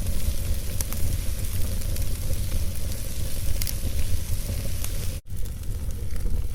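Wood logs burning in a fireplace: a steady low rumble with scattered sharp crackles, and a split-second dropout about five seconds in.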